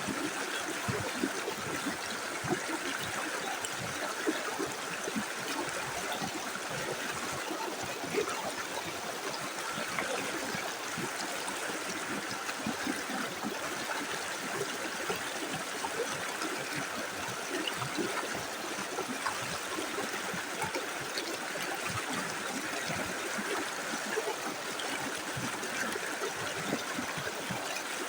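Small river flowing over stones: steady rushing water with a constant patter of small splashes and gurgles.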